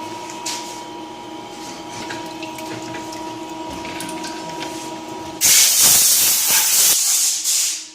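A steady machine hum with two held tones, then a loud hiss that starts abruptly about five and a half seconds in and cuts off just before the end.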